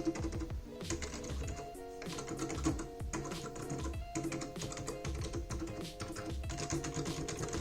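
Typing sound test on a Matias Mini Quiet Pro mechanical keyboard with Matias's own switches: a rapid, continuous patter of soft key presses. The keys are pretty quiet.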